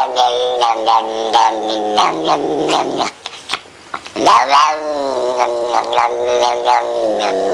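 A cat yowling in long, drawn-out wavering calls, with a short break about three seconds in before a second long yowl begins.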